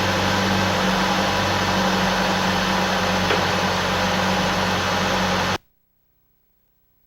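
Honda ZC 1.6-litre twin-cam four-cylinder engine running steadily with a constant hum and hiss. About five and a half seconds in, the sound cuts off abruptly to near silence.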